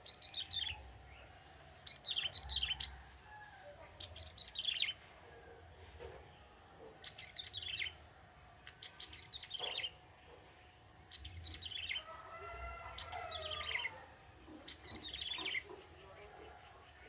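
Young male ciblek tebu, a prinia, singing: about eight short, loud phrases of quick falling notes, one roughly every two seconds. A lower, slurred call runs alongside the song a little past the middle.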